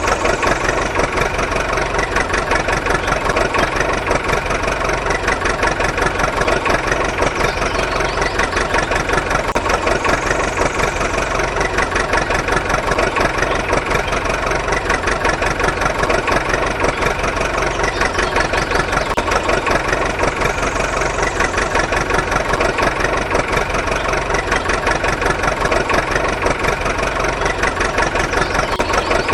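A small motor running steadily with a fast, even chatter, the machine working at a constant pace.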